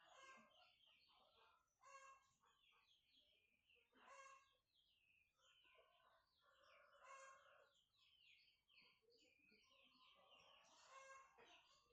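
Faint bird calls, many short chirps, with a few slightly louder calls about two, four, seven and eleven seconds in.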